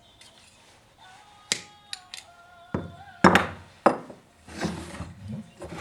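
Sharp knocks and clinks of hand tools and metal parts being handled during a chainsaw repair, the loudest a little past the middle, followed by two short rustling scrapes, over faint background music.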